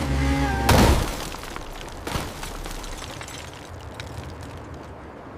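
A steady engine hum cut off by a loud crash less than a second in, followed by a fading rumble with a few scattered knocks.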